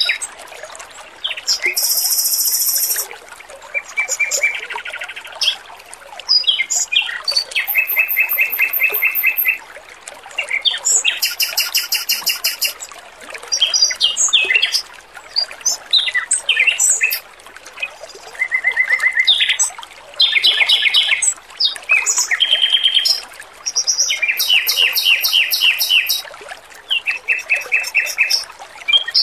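Male Pekin robin (red-billed leiothrix) singing in repeated phrases of fast trills and rapidly repeated notes, each phrase one to two seconds long with short gaps between. Beneath it runs a steady trickle of water.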